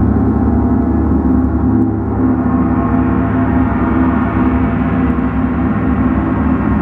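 Gong sounding in a sustained, steady drone: a dense wash of many overlapping tones with a strong low hum and no separate strikes.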